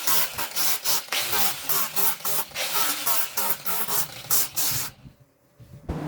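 A quick run of short rasping strokes, about two or three a second, like a hand tool scraping or rubbing a surface. They stop about five seconds in.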